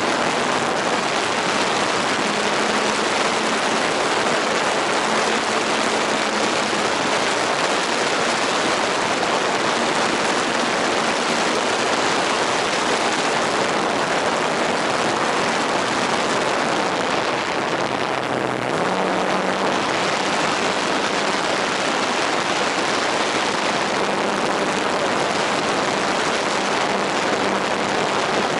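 Radio-controlled model airplane in flight, its motor a faint steady drone that drops in pitch about two-thirds of the way in and then rises again, under a loud, even hiss.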